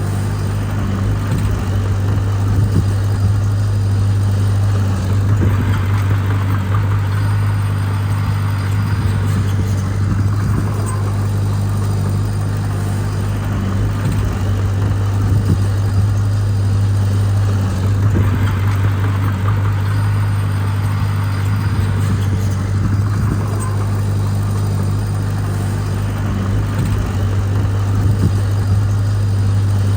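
Heavy diesel engine of earthmoving equipment running steadily with a constant low hum, its higher noise swelling and easing every few seconds.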